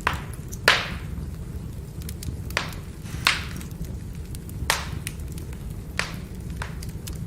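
Firewood burning in a fire, with a steady low rumble and irregular sharp crackles and pops, about half a dozen loud ones, the loudest about a second in, among many faint ticks.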